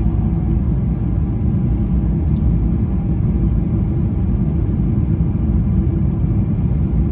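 Steady low rumble inside the passenger cabin of a Boeing 777-300ER, from its GE90-115B engines and the airflow around the fuselage, holding an even level with no change in engine power.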